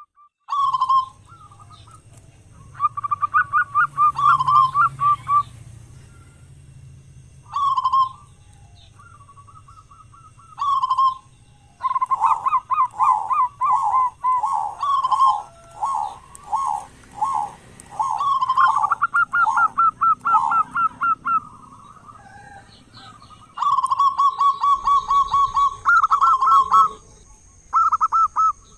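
Zebra dove (perkutut) cooing in repeated bouts of rapid, pulsing coos at a steady pitch, each bout lasting one to several seconds with short pauses between. The bouts are densest in the middle and again near the end.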